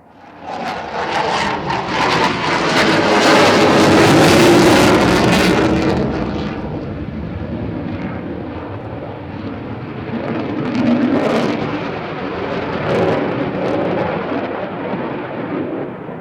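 Jet noise of a Panavia Tornado IDS's twin RB199 turbofans in a display pass. It comes in suddenly about half a second in and is loudest around four seconds in. It eases somewhat, swells again a couple of times, and falls away near the end.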